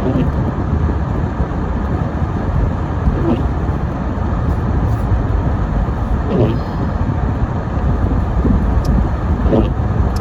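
Steady road and engine noise of a car driving, heavy in the low end, with a few brief faint voices about three, six and nine seconds in.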